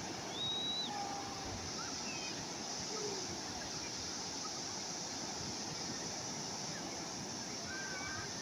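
Steady wash of calm sea waves, with a few faint short bird calls: one about half a second in, another near the end.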